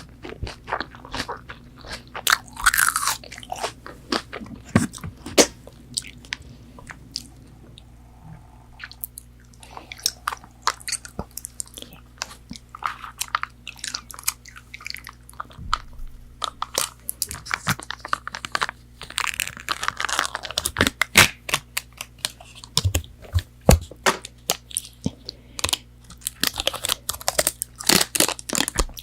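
Close-miked crunching and chewing of crispy fried McDonald's chicken nuggets: crackly bites and chewing, with a quieter stretch about seven seconds in.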